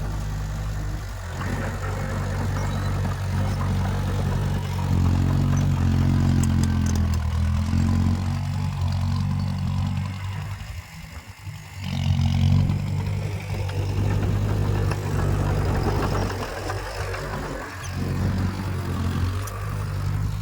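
Heavy diesel engine of earthmoving machinery running under load. It drops away about ten seconds in and picks back up loudly about two seconds later.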